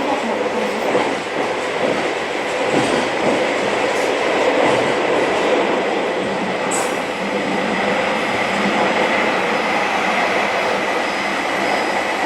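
Electric commuter train running, heard from inside the car: a steady rolling rumble with a faint high whine, and one brief sharp click about seven seconds in.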